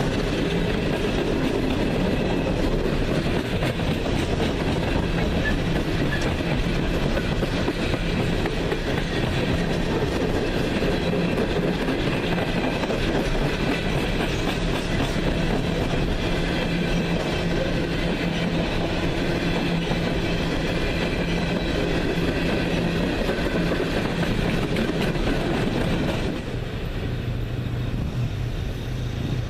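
A train rolling past, its steel wheels running on the rails in a loud, steady rumble. About 26 seconds in the sound thins out and drops to a lower steady drone.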